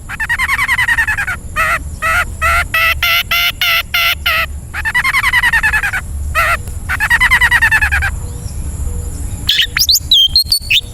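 Long-tailed shrike (cendet) song: harsh, rasping, arching calls alternating with a fast run of short repeated notes, then quick high, thin chirps near the end.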